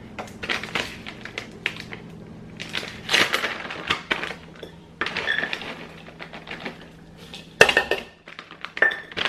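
Plastic food bag being torn open and handled, crinkling and rustling in irregular bursts, with light clatters and a sharp knock a little past halfway through.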